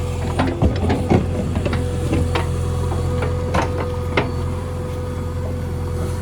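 JCB 3DX backhoe loader's diesel engine running at a steady speed, with scattered sharp metallic clanks and rattles, most of them in the first half.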